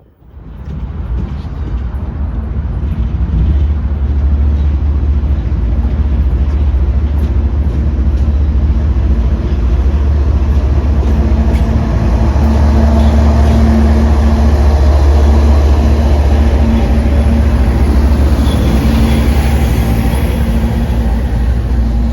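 A train passing close by: a loud, steady low rumble with a constant hum over it, coming in suddenly and building over the first few seconds.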